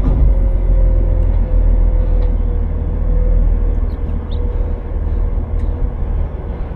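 Autocar-Heil front-load garbage truck's diesel engine running steadily: a deep rumble with a faint steady whine over it and a few light clicks.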